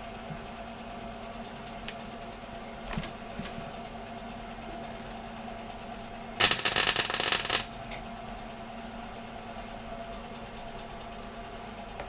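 One short weld, crackling for about a second just past the middle, over a steady electrical hum. A couple of faint clicks come before it.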